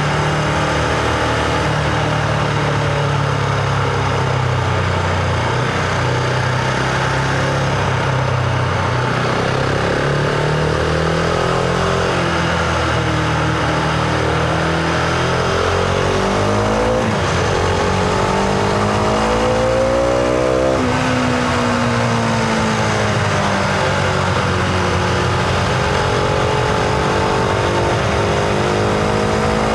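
Husqvarna Vitpilen 701's single-cylinder engine running on the move. It holds steady, then rises in pitch as it accelerates a little over halfway through, and falls back again a few seconds later.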